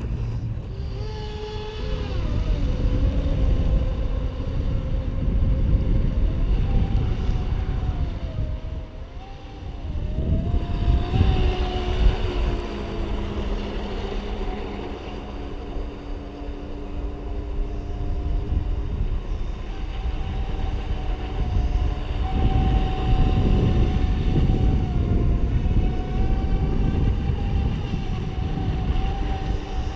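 Brushless RC speedboats running on the water: the electric motors give a steady whine that wavers in pitch with the throttle, dipping briefly about nine seconds in, over a low rumble of wind on the microphone.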